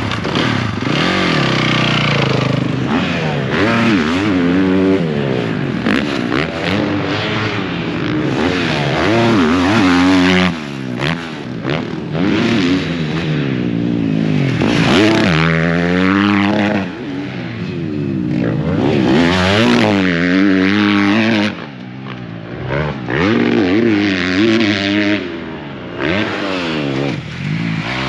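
Motocross bike engine revving hard and climbing through the gears, the throttle shut off sharply several times and opened up again as it is ridden around the track.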